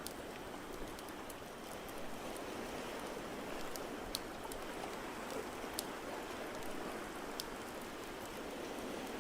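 Steady, even hiss like falling rain, with sharp fireplace crackles popping every second or two.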